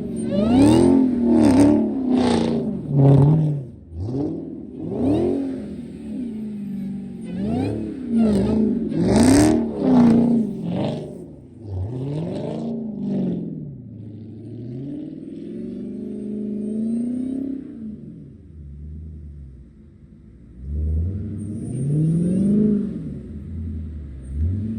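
Dodge Hellcat's supercharged 6.2-litre V8 revving up and down again and again as the car is drifted on snow. Quick rises and falls in engine pitch come one after another at first, then a longer, smoother pull; the revs drop off near the end before climbing again.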